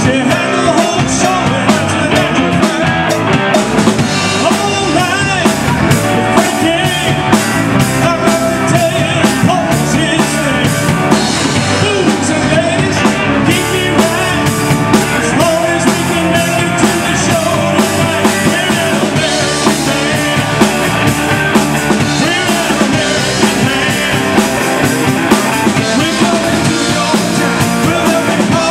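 Live rock band playing at full volume: drum kit with steady beat, guitars and bass, with singing.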